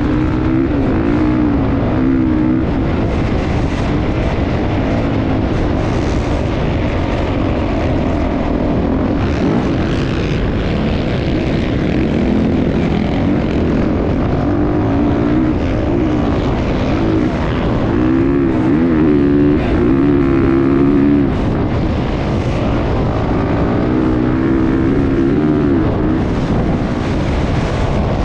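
Motocross bike engine running hard, its revs rising and falling again and again over a constant rush of noise.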